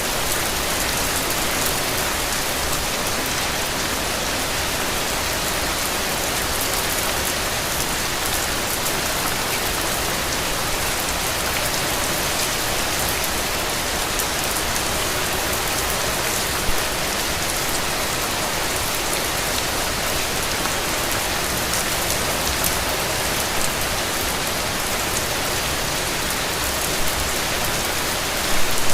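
Steady rain falling on hard surfaces, an even hiss of drops, with a few brief louder drops standing out about halfway through and near the end.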